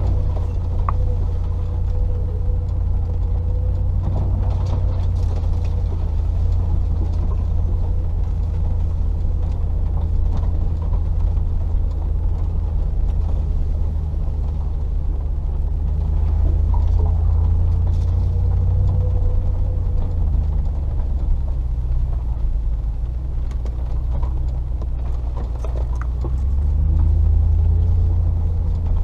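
Range Rover P38's 4.0-litre GEMS V8 running as the vehicle drives slowly on a rough track, a steady low engine drone with scattered knocks and rattles. The engine note swells a little twice, about halfway through and near the end.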